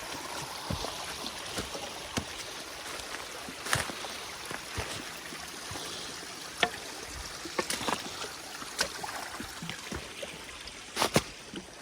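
Shallow stream running steadily over rock, with scattered sharp clicks and knocks of footsteps on stones and wet leaves.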